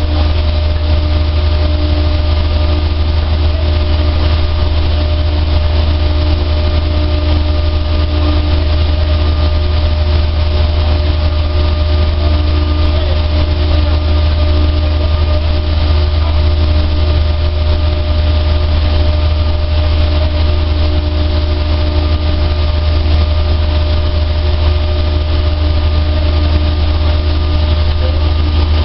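A dryer's motor and fan running steadily: a constant low hum with a few steady whining tones and an even rush of air noise over it.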